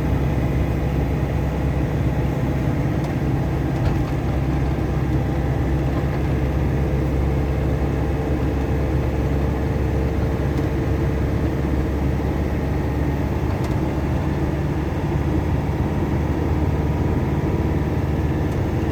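Cummins diesel engine of a loaded GAZelle truck pulling steadily uphill, a continuous low drone.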